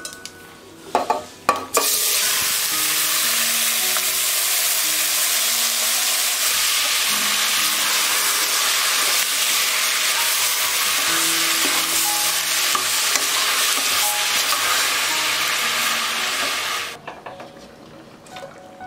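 Onions and masala-coated pieces sizzling loudly in hot oil in a stainless steel pressure cooker pot while being stirred with a wooden spatula. The sizzle starts about two seconds in after a few knocks and cuts off suddenly near the end.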